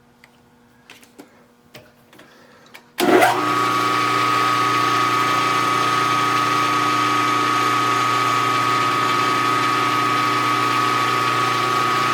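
A few light clicks, then a milling machine's spindle motor starts about three seconds in and runs at a steady hum with a whine, as the boring head takes another light pass to open up the bearing bore.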